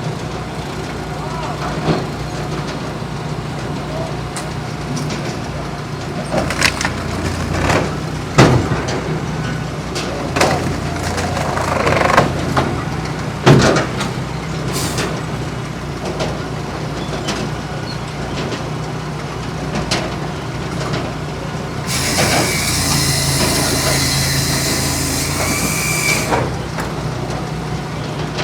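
Firewood processing machinery running: a steady engine drone with several sharp knocks of wood and steel, and a hiss for a few seconds near the end.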